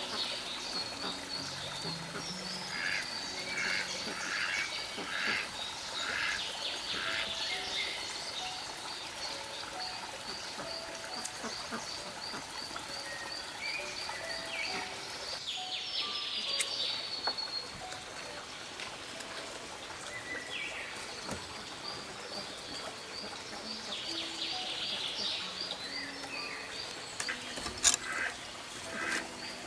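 Outdoor wildlife calls: a high chirp repeating evenly about three times a second, with other bird-like calls over it. Soft background music sits underneath, and a sharp click comes near the end.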